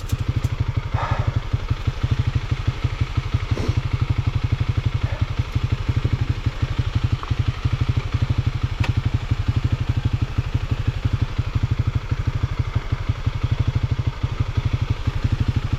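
Motorcycle engine idling steadily with a fast, even putter, and a few faint knocks over it.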